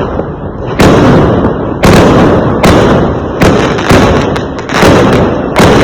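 Fireworks exploding in a rapid series: about seven loud bangs, roughly one a second, each trailing off in a rumble.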